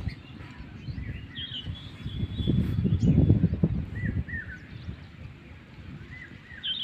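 Small birds chirping in short, scattered calls over a low, rough scuffling rumble that swells to its loudest about three seconds in.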